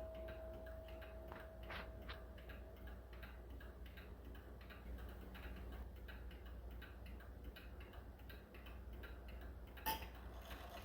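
Seth Thomas beehive mantel clock ticking steadily. A ringing tone fades out over the first few seconds, and a single sharper click comes near the end.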